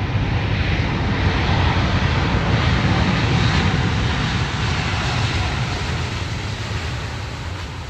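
Airbus A350-1000 airliner flying past, the loud noise of its two Rolls-Royce Trent XWB turbofan engines, slowly fading over the last few seconds.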